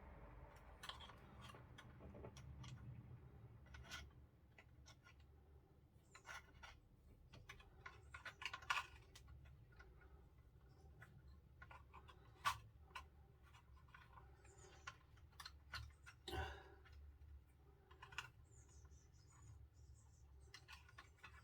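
Faint, scattered clicks and taps of small RC-kit parts being handled and pushed into place, with a few sharper clicks among them.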